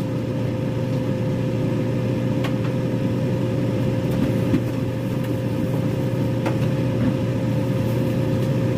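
Microwave oven running: a steady hum with a constant mid-pitched tone, plus a couple of faint clicks.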